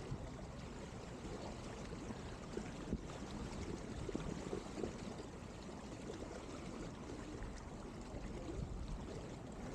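Water trickling and gurgling along the hull of a Byte CII sailing dinghy under way, a steady wash with many small splashes.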